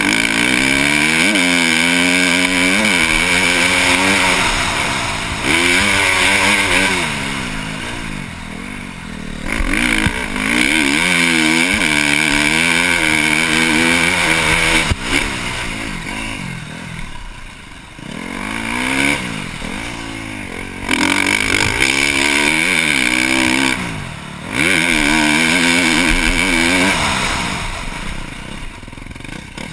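KTM SX-F 350 four-stroke single-cylinder engine with a Yoshimura exhaust, revving up hard through the gears again and again, with several drops where the throttle is rolled off.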